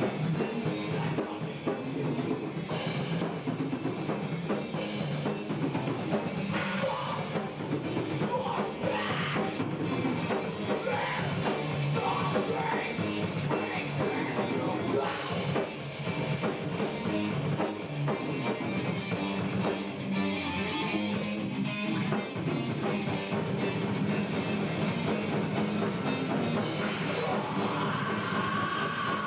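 Heavy rock music with a loud drum kit and bass drum driving it, and a held high note coming in near the end.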